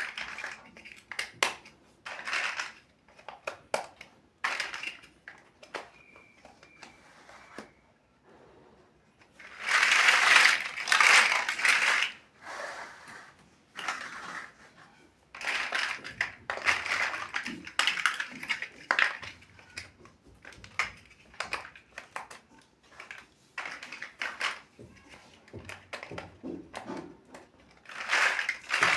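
Plastic building-block pieces clicking, snapping and rattling as they are handled and pressed together, in irregular clicks with longer bursts of rattling about a third of the way in, in the middle and near the end.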